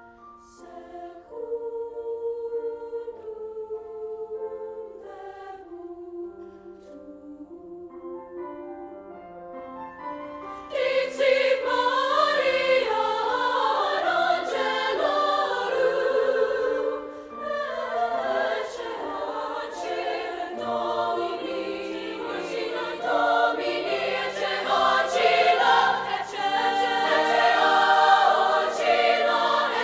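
Choral music: soft held chords for about ten seconds, then a fuller, louder choir section that comes in suddenly and carries on.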